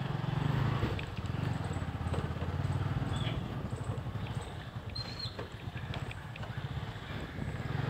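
Motorcycle engine running at low speed, heard from the saddle, a low steady note that swells and dips slightly as the bike creeps along. A brief high chirp comes about five seconds in.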